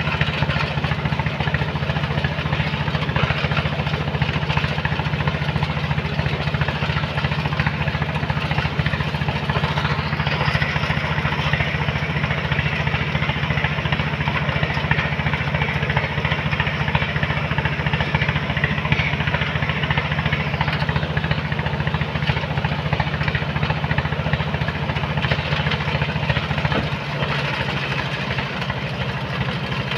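Engine of a sand-loading machine running steadily under work, with a faint high whine for about ten seconds mid-way; the low engine note drops a little near the end.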